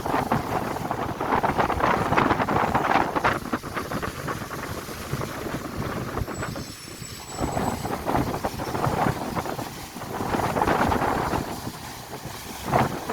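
Gusty wind buffeting the microphone by the sea, a rough rushing noise that swells and dies away every second or two.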